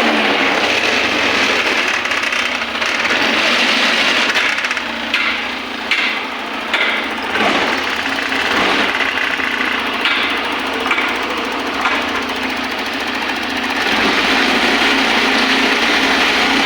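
TVS Jupiter 125 scooter's single-cylinder four-stroke engine running on the stand after its seized cylinder was replaced, steady with a brief drop in level in the middle and a few sharp clicks.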